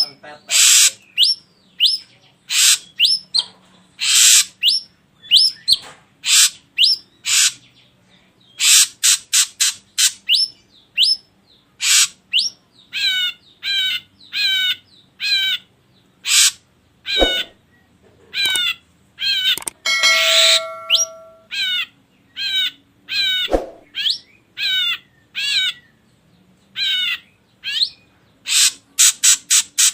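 Ashy drongo calling: fast series of short, sharp chirps and whistled notes, some in quick wavering runs, with a harsher buzzy call about twenty seconds in.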